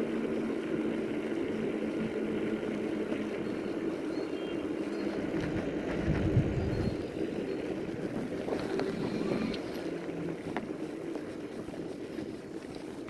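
Electric fat-tire bike riding at speed: a steady hum from the motor and fat tyres on the road, with wind on the microphone. There is a low bump about six seconds in.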